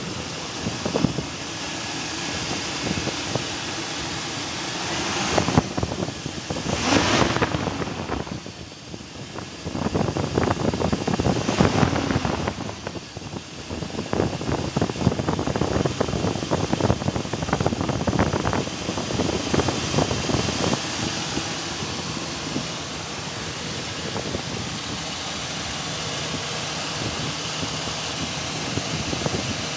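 Chevrolet 6.0-litre V8 of a 2002 Silverado 2500 running with a quick, repeated knock, which the owner puts down to a rod or lifter rather than piston slap. The engine is on synthetic 5W-30 oil. The sound swells louder a few times in the first half.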